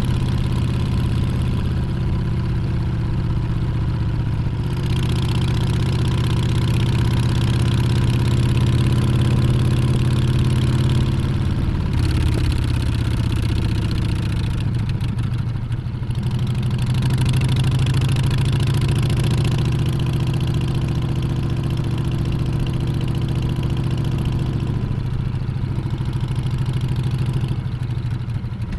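Harley-Davidson Street Bob's Milwaukee-Eight 114 V-twin running at low revs, with a steady low engine note and a hiss over it. The note dips briefly three times as the throttle is eased.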